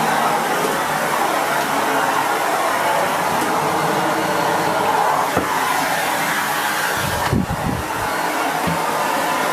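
Miele S8730 (C3 Complete) cylinder vacuum cleaner running steadily at medium power as it vacuums the floor, a constant rushing whine of the motor and airflow. A little after seven seconds the low end of the sound wavers briefly, as the suction changes for a moment.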